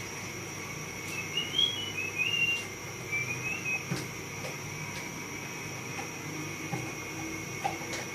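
A small bird chirping a short run of quick rising notes about a second in, over a steady hiss, with a few faint clicks.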